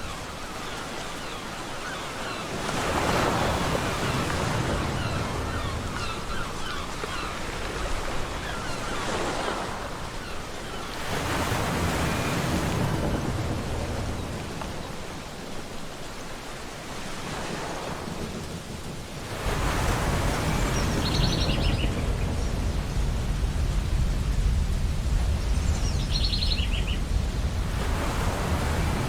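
Ocean waves breaking on a beach, surging in and washing back every several seconds, with a deeper low rumble setting in past the middle. A bird gives short calls twice near the end.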